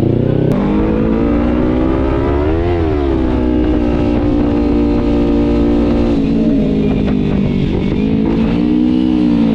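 Kawasaki Z300 parallel-twin engine running under way, its revs rising to a peak about three seconds in, holding steady, falling away around six seconds and rising again near the end, over low wind rumble.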